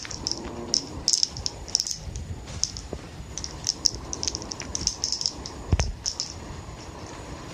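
A kitten's toy ball rattling and clicking irregularly as it is batted and rolled, with a heavier knock about six seconds in.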